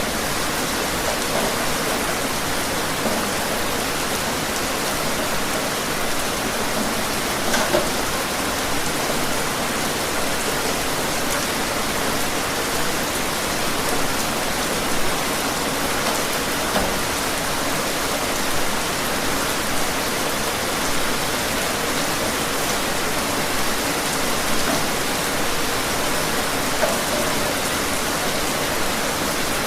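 Steady rain falling outside, an even hiss with occasional louder individual drops.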